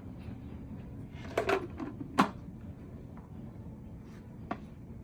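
A few sharp clicks and knocks of the vacuum cleaner's plastic parts being handled, several together about a second and a half in, the loudest just after two seconds, and a lighter one near the end.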